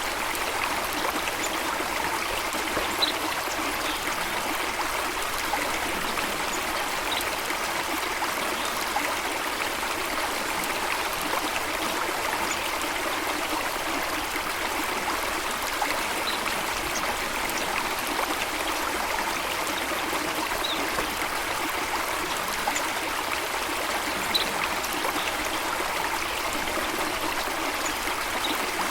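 Steady rush of flowing water, with a few faint, short bird chirps scattered through.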